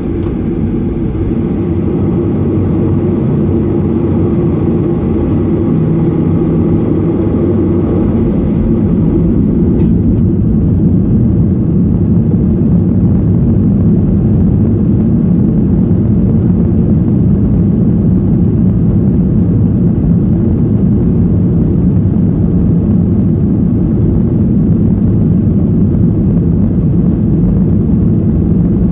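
Boeing 737-800's CFM56-7B jet engines heard from inside the cabin at departure. The noise grows louder over roughly the first ten seconds and then holds steady and loud.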